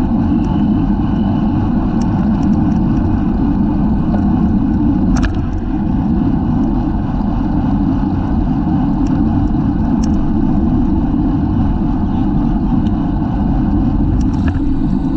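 Steady wind buffeting and road noise on a bike-mounted camera's microphone while riding at race speed, with a few brief clicks.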